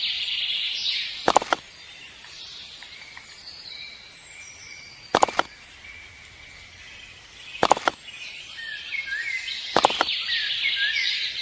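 Small birds chirping, with a run of short falling chirps near the end. Four sharp clicks or knocks, a few seconds apart, stand out above the birdsong.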